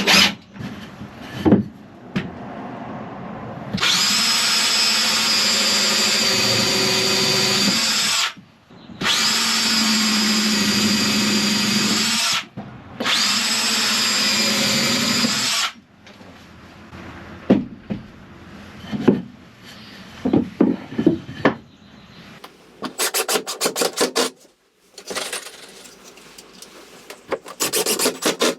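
Power drill running in three steady bursts of about three to four seconds each, driving screws into wood. Then a few scattered knocks, and near the end two quick runs of short rasping strokes.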